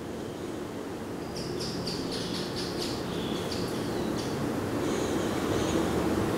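Outdoor birds chirping, a quick run of high notes for about three seconds starting a second in, over a low rumble of background noise that grows steadily louder.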